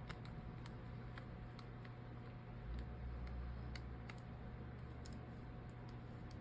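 Light, irregular clicks and taps of small hand tools and parts on a smartphone being reassembled, over a steady low electrical hum.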